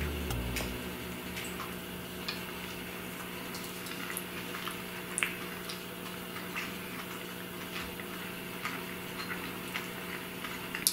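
Quiet chewing and small mouth and finger clicks from two people eating marshmallow Peeps candy, over a steady low hum. A music track ends within the first second.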